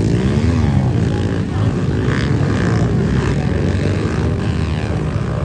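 A group of pit bike engines running together, buzzing steadily with revs rising and falling, as the bikes set off for practice.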